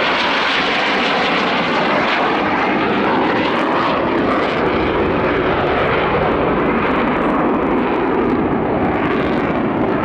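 Military display aircraft's engines running loud and steady.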